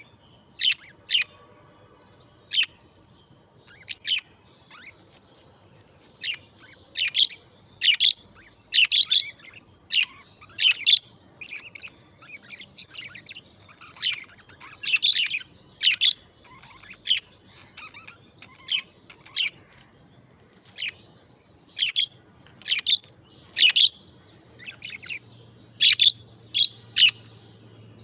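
Budgerigars chirping: many short, high chirps coming irregularly, a few to several a second, with brief gaps between bursts.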